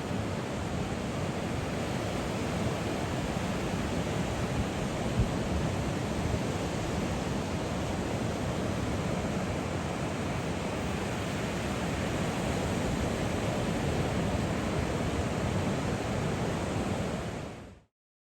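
Ocean surf washing onto a beach, with wind on the microphone: a steady rush of noise that cuts off suddenly near the end.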